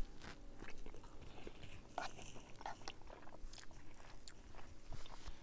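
A person biting into and chewing cheese-topped bread close to the microphone: irregular crunching and wet chewing clicks.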